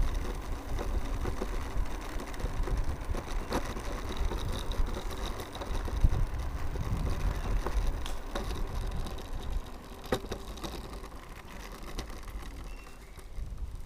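Mercane electric scooter riding along a road: wind buffeting the microphone over tyre and road noise, with a faint motor whine and a few sharp knocks from bumps. It quietens near the end as the scooter slows.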